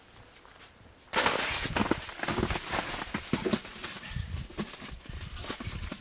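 Footsteps crunching in snow, starting suddenly about a second in after a near-quiet start and going on as a dense, irregular crunching.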